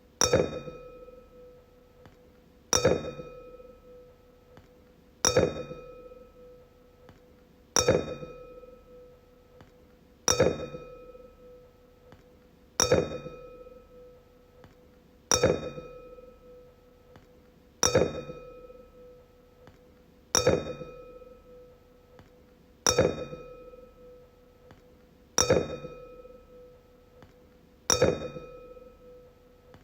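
A wine glass struck again and again, about every two and a half seconds, twelve times. Each tap gives a sharp clink that rings on in a clear tone with bright overtones and dies away quickly.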